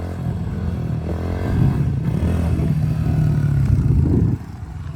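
Honda CRF110 pit bike's small single-cylinder four-stroke engine revving hard as it accelerates, the pitch climbing through the first second or so, then the throttle drops off suddenly about four seconds in.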